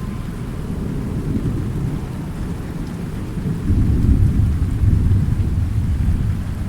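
Thunderstorm: steady rain with a low rolling rumble of thunder that swells about halfway through and then fades off.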